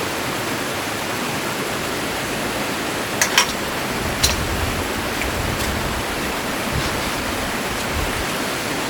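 Stream water rushing steadily, with a few light clicks about a third of the way in and again near the middle.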